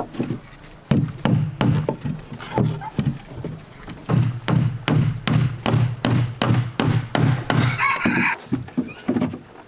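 A rapid series of knocking strikes, each with a dull thud, about three a second. They break off briefly once, then resume; a short rasping noise follows near the end.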